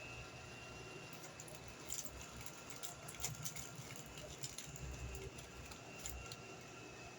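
Small handling noises at a study desk: irregular light clicks and taps for about five seconds, over a steady room hum with a faint high whine.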